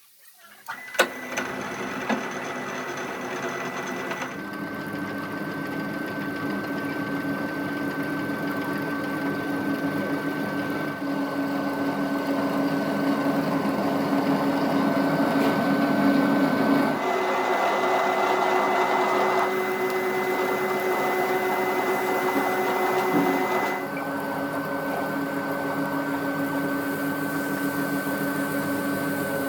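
Workshop machinery running with a steady whine, its pitch and tone changing abruptly about 4, 17 and 24 seconds in; a couple of sharp clicks about a second in.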